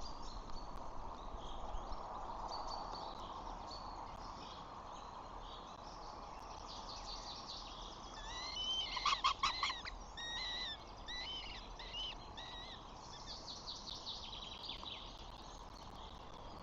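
Birds calling in repeated high chirps over a steady outdoor rush of noise, with the loudest burst of calls about halfway through.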